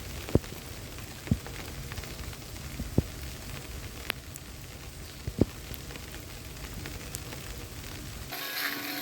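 Fine volcanic fragments (ash and small lapilli) from an Etna paroxysm falling like rain, a steady sizzling patter with a handful of sharper ticks as larger bits strike close by. Near the end the sound changes abruptly to a brighter noise with a faint steady hum.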